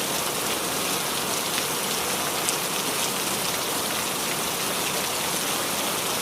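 Steady rain falling on a small tree, an even hiss with scattered drops pattering on leaves.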